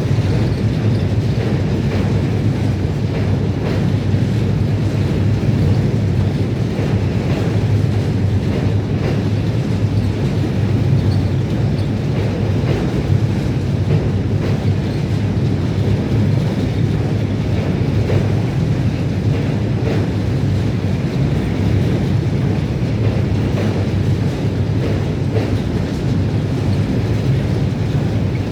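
Train hauled by a D12E diesel-electric locomotive rolling across a bridge: a steady low rumble with the clickety-clack of wheels over rail joints.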